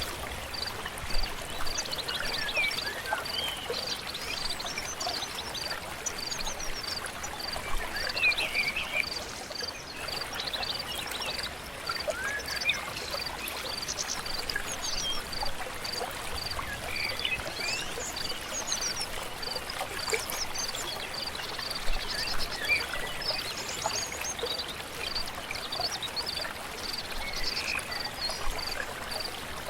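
A stream flowing steadily, with wild birds chirping and singing over it and a high, even peep repeating about twice a second.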